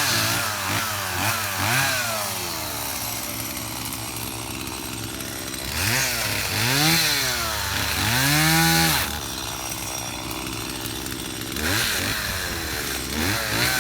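Two-stroke chainsaw engine revved up and down repeatedly, idling between throttle bursts: a quick series of short revs at the start, then longer revs around six and nine seconds in and a few more near the end.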